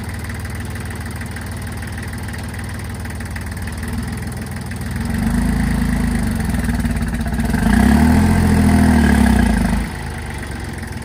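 Tractor engine idling, then speeding up about five seconds in and higher still a little later. It drops back to idle suddenly near the end.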